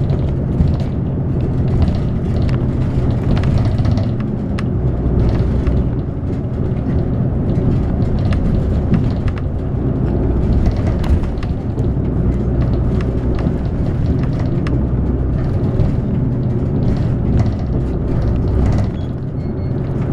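Inside a moving city bus: the engine runs with a steady low drone under road and tyre noise, with scattered light clicks and rattles from the cabin.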